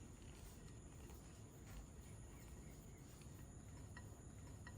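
Near silence: faint steady background hiss with a thin high whine and a few faint ticks.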